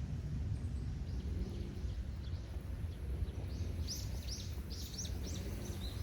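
A songbird calling: a quick run of about half a dozen sharp, high chirps a little past halfway, over a steady low rumble.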